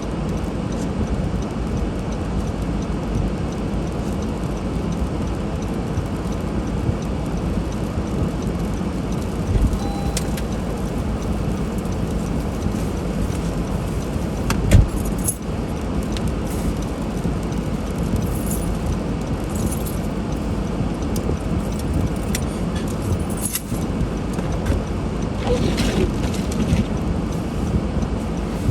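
Steady road and engine noise of a car driving through snow, with a sharp knock about halfway through and a few light clicks and rattles.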